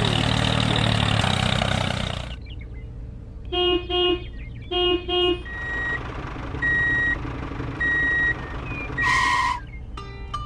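Truck sound effects: an engine running that cuts off about two seconds in, then two double horn toots, then a reversing alarm beeping four times about a second apart, and a short hiss like an air brake. Plucked-string music begins near the end.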